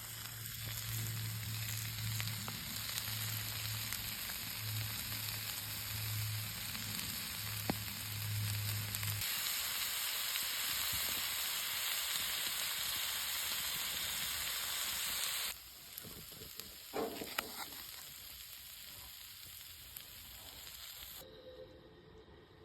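Cheesesteak meat sizzling as it fries in a pan, a steady hiss with a low hum under it for the first part. The sizzle cuts off suddenly about two-thirds of the way through, leaving a quieter background.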